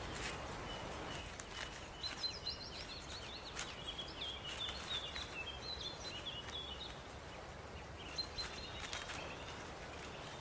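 Bird calls: rapid series of short, high chirping notes against a faint outdoor background, in two bouts, with a few light ticks.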